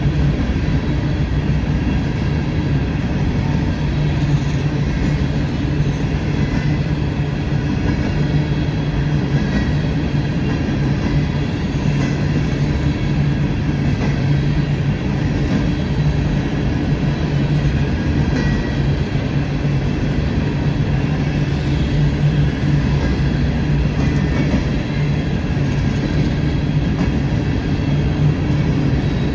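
Empty coal train's freight cars rolling past, a steady, unbroken noise of wheels on rail.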